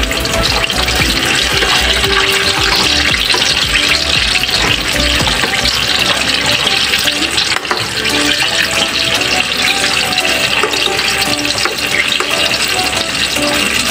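Whole eggplants sizzling steadily as they deep-fry in hot, bubbling oil, with background music playing over it.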